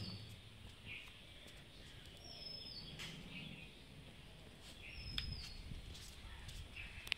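A bird calling a few times, each call a short high whistled note that slides down, about every two and a half to three seconds, over faint outdoor background noise with a few scattered clicks.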